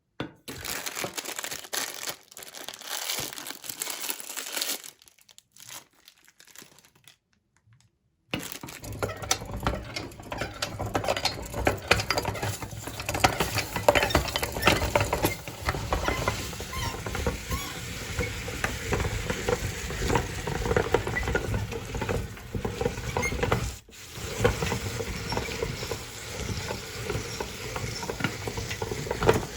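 Wrappers crinkling at first. About eight seconds in, a meat grinder starts and runs steadily with a low hum and many small clicks as it grinds ice cream, briefly cutting out once near the end.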